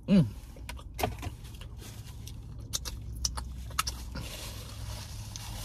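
Chewing with small mouth clicks over the steady low hum of a car cabin, with a brief vocal sound at the very start.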